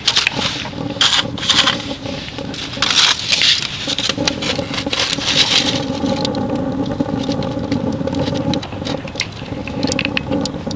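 Pellet-fed J-tube rocket stove burning hard: a steady rushing draft of air pulled through the burning pellets, the forge-like 'rocket' sound of a well-balanced air-fuel burn. Loud bursts of crackling hiss come over the first six seconds, then fainter crackles.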